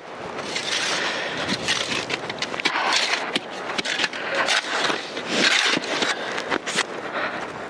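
Footsteps crunching and scraping through snow, irregular steps with rustling over a steady hiss.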